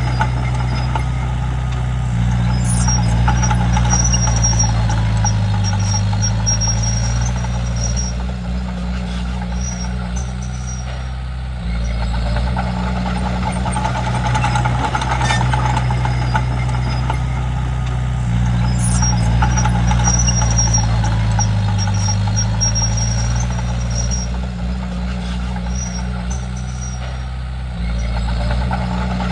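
Komatsu D31P bulldozer's diesel engine running steadily, its pitch and loudness stepping up and down every few seconds as the load changes. Faint high squeaks come through now and then.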